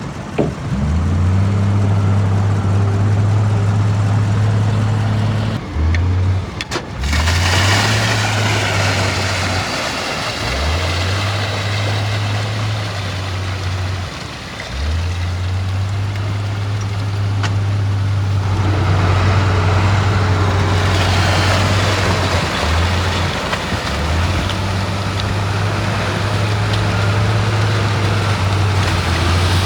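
Heavy earthmoving machine's diesel engine working. Its low note dips and climbs back up several times as the load changes, with a rushing noise over it at times.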